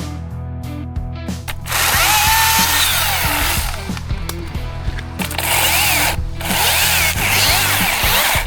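A chainsaw cutting wood, starting about two seconds in and pausing briefly near six seconds, over background music.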